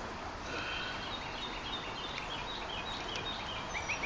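Birds chirping: a string of short high calls, then a quick run of rapid chirps near the end, over a steady background hiss.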